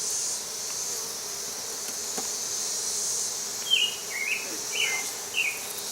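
Honey bees buzzing in a steady hum around an opened colony's fresh comb, over a steady high insect hiss. Four short chirps come in the second half.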